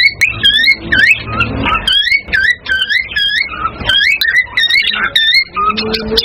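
Cockatiels chirping and whistling in quick, repeated short notes, several a second, each note dipping and then rising in pitch.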